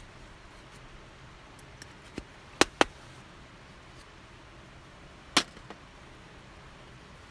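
Campfire wood popping: a few sharp cracks, a quick pair about two and a half seconds in and another about five seconds in, over a faint quiet background.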